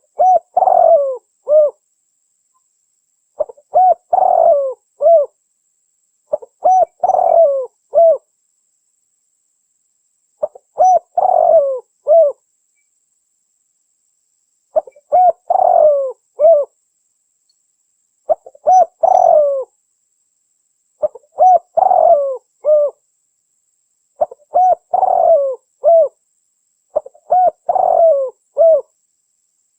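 Spotted dove (tekukur) cooing: a phrase of several soft coo notes, repeated nine times at about three-second intervals, used as a lure call.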